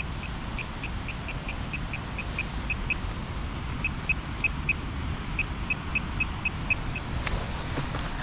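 Metal detector beeping in quick short pulses, about three to four a second in bursts with brief pauses, as it sounds off on a buried target; the beeping stops near the end and a single sharp click follows. Wind rumbles on the microphone throughout.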